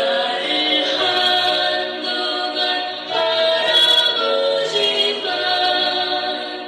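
A woman singing a slow, sad Korean song, holding long notes that slide between pitches.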